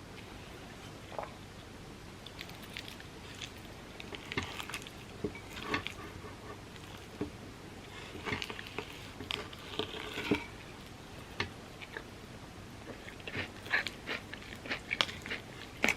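Close-miked eating sounds: biting and chewing through overnight oats with a crisp pistachio-kataifi and hardened-chocolate topping. The crackly clicks come in irregular clusters, with quieter gaps between bites.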